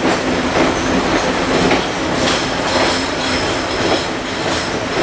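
Passenger train heard from aboard while moving: a steady rumble of wheels on rail with scattered light clicks.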